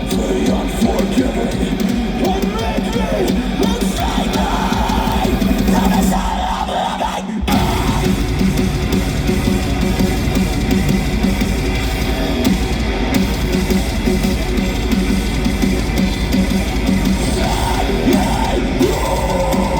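Metalcore band playing live and loud: distorted electric guitars, bass and drum kit. The whole band stops dead for a moment about seven seconds in, then crashes back in.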